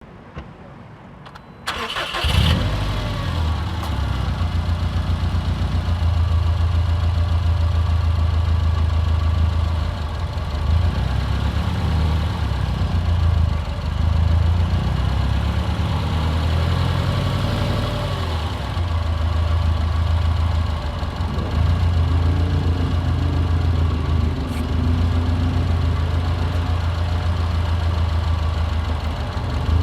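Subaru WRX STi's turbocharged flat-four engine starting about two seconds in, then idling steadily.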